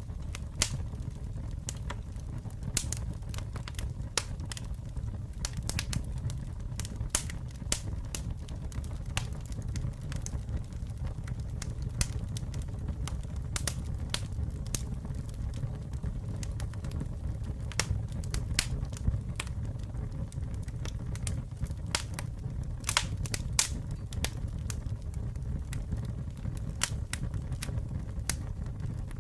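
Campfire burning with a steady low rumble and irregular sharp crackles and pops of burning wood, a few louder pops scattered through.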